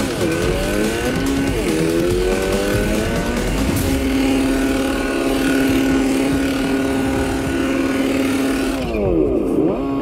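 Car engine sound of a drifting RC car, revving up and down. About four seconds in it holds one steady pitch for several seconds, then rises and falls again near the end.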